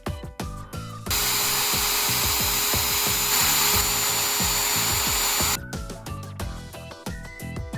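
High-speed rotary tool (Dremel type) running and working against material for about four and a half seconds: a loud, steady hiss with a constant high whine that starts about a second in and cuts off abruptly.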